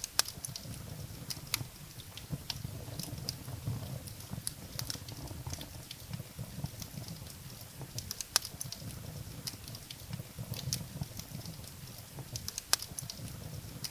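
Wood fire burning in a fireplace: a steady low rumble of the flames with irregular crackles and sharp pops of burning firewood, the loudest pops just after the start, about eight seconds in and near the end.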